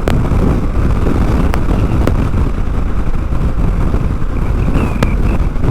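Steady wind and riding noise from a Honda Africa Twin adventure motorcycle at highway speed, with heavy buffeting from a strong crosswind on the microphone.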